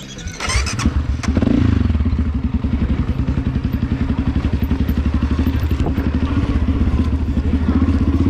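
Enduro motorcycle engine that comes in about a second in and then runs steadily at idle with an even, rapid pulse, after a short rustling noise at the start.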